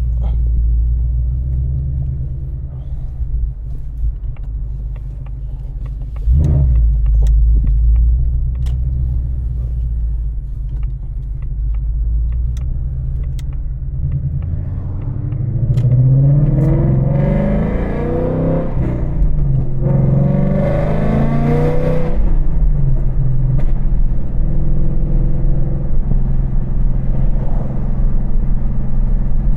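Ford Mustang GT's 5.0 V8 with Kooks longtube headers and the exhaust in track mode, heard while driving. It rumbles steadily, with a sudden louder rumble about six seconds in. About halfway through it accelerates: the pitch rises, drops at a gear change, and rises again, then it settles into a steady cruise.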